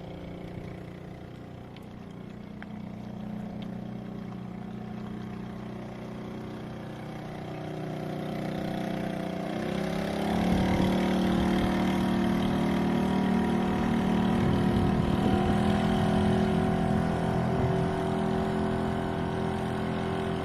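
Honda 2 hp single-cylinder four-stroke outboard motor running steadily at low throttle. About ten seconds in it is throttled up: its pitch rises and it gets louder, then it holds at the higher speed.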